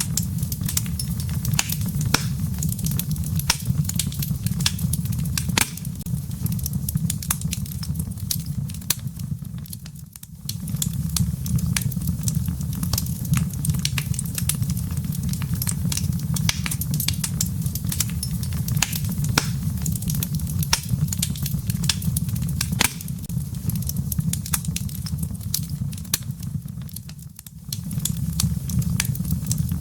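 Wood fire burning in a fireplace: a steady low rumble of flames with frequent sharp crackles and pops from the burning logs. The rumble drops away briefly twice, about ten seconds in and near the end.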